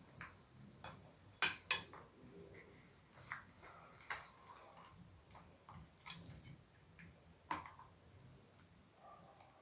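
Scattered small clicks and knocks of someone eating starch and okra soup, the loudest a quick pair of sharp clicks about a second and a half in.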